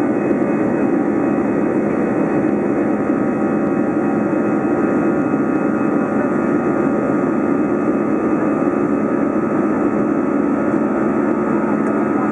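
Jet engines of an Airbus A320 (CFM56 turbofans) running steadily at high power after take-off, heard from inside the passenger cabin: a loud, even rush with several steady whining tones over it.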